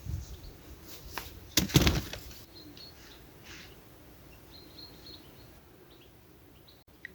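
A couple of sharp rustling knocks in the first two seconds, then quiet with faint small birds chirping now and then.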